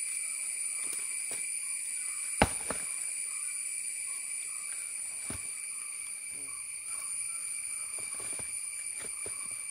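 Insects droning in a steady, high-pitched continuous whine. A few sharp clicks or knocks cut through it, the loudest about two and a half seconds in.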